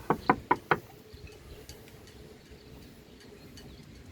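Four quick sharp taps, about four a second, in the first second, then only a faint background.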